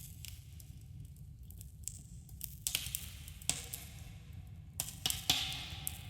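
Campfire burning and crackling, with irregular sharp pops over a low steady rumble; the loudest pop comes about five seconds in, followed by a brief hiss.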